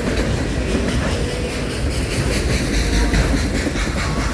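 A loaded autorack freight train rolling past at a grade crossing: a steady heavy rumble of steel wheels on rail with irregular clicking over the joints, and a few brief faint wheel squeals.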